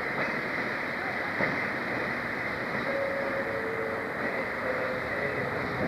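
A train running on the rails: a steady rumbling noise, with faint steady tones joining in about halfway.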